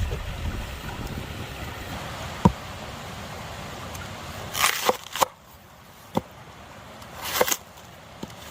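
Steady rush of a flowing stream, with a few sharp knocks and clicks and two short rustling swishes from close handling.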